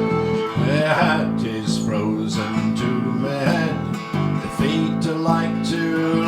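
Instrumental folk music: strummed acoustic guitar, with a melody line above it that slides up and down in pitch.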